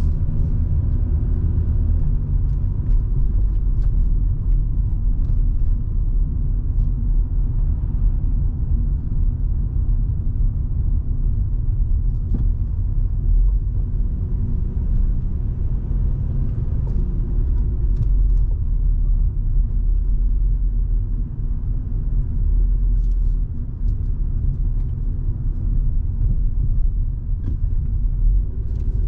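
Volvo V70 2.5T, with its turbocharged five-cylinder engine, driving along at a steady pace: a constant low engine and road rumble with a faint engine hum and a few light ticks.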